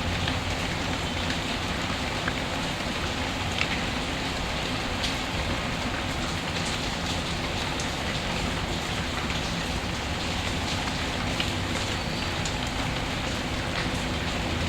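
Steady rain, mixed with occasional sharp crackles and ticks from a fireplace.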